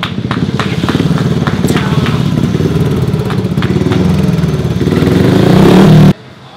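Speedway motorcycle's 500 cc single-cylinder methanol engine running hard, getting louder, then cut off abruptly about six seconds in.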